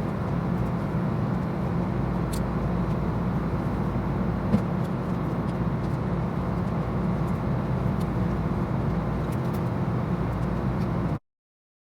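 Steady road and engine rumble inside a moving taxi, with one small click about four and a half seconds in; it cuts off suddenly near the end.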